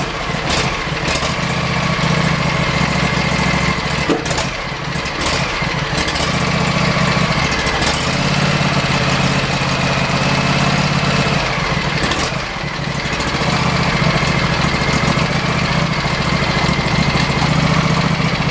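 John Deere riding mower engine running, its note swelling and fading every few seconds, with a steady high whine over it and a few sharp clicks. The owner takes the uneven running for a fault, which he suspects lies in the carburetor solenoid or the contact points.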